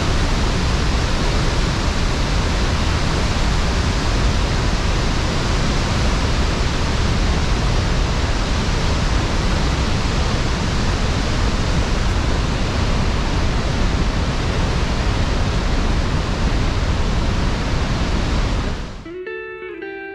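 Steady, loud rushing of a waterfall, even in level throughout, cutting off sharply about nineteen seconds in as acoustic guitar music begins.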